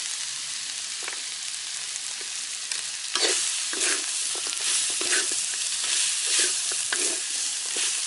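Crocodile meat stir-frying in hot oil, sizzling steadily. From about three seconds in, a utensil stirs and scrapes through it in repeated strokes.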